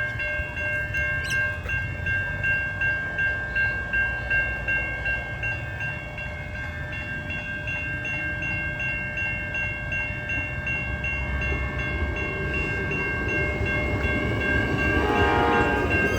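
Railway level crossing warning bells ringing in a steady, even pulse while a train rumbles through; the rumble grows louder toward the end.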